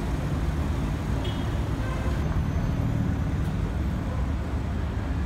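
BMW M3 (G80) driving slowly past, its twin-turbo straight-six running with a steady low rumble at light throttle.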